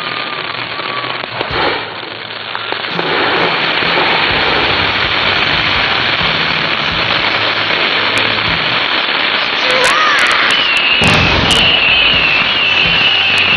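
Consumer fireworks going off in a dense, continuous crackle. A falling whistle fades near the start, and about ten seconds in a rising whistle settles into a wavering high whistle, with a deep thump from a launch or burst.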